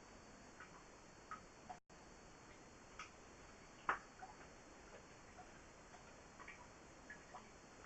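Near silence with faint, irregular small clicks and ticks, one sharper click about four seconds in; the sound cuts out completely for a moment just before two seconds in.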